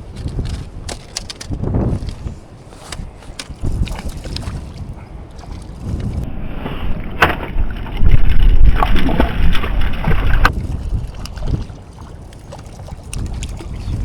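Strong wind buffeting the microphone in low rumbling gusts, hardest a little past halfway, with scattered clicks and knocks throughout.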